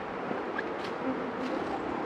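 Honeybees buzzing around an opened hive: a steady drone, with a few faint clicks.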